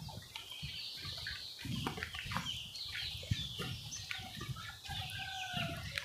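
Birds calling: many short, high, falling chirps overlapping, with a longer, lower sliding call near the end, over a low rumble.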